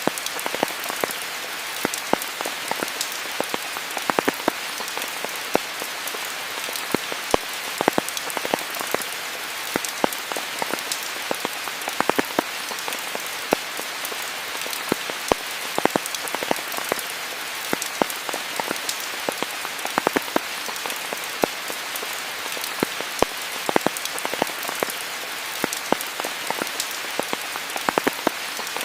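Steady rain falling, an even hiss with many close, sharp drop impacts scattered through it.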